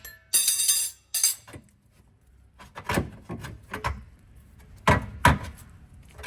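Metal clatter from car parts and tools while a drive axle is worked free: a short rattling scrape near the start, then several separate clunks.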